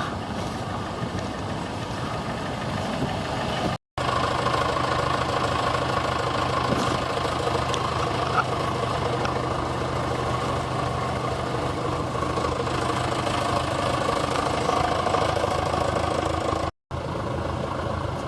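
Vintage tractor engine running steadily at a low, even speed, with two brief breaks where the recording cuts, about four seconds in and near the end.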